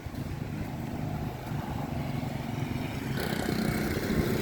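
Street traffic: a motor vehicle's engine running nearby, growing louder near the end as it approaches.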